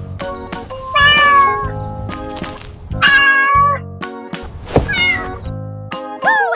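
Cartoon background music with a cartoon animal's voice sound effects: about four short pitched calls that bend in pitch, the loudest about one and three seconds in.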